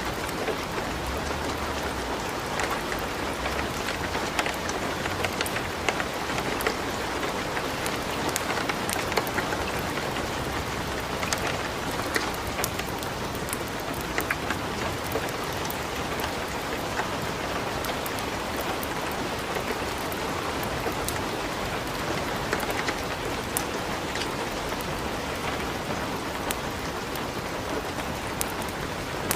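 Steady light rain falling, mixed with a wood fire crackling in a fireplace, with sharp pops scattered through it.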